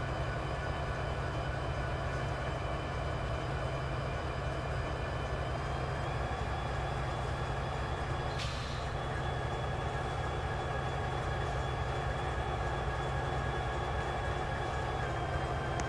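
A train running steadily, with a low rumble and several steady whining tones that shift slightly in pitch, and one brief sharp noise about halfway through.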